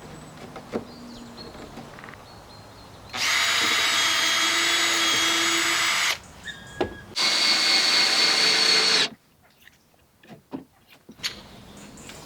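A power tool's motor running with a steady high whine in two bursts, about three seconds and two seconds long, with a short pause between.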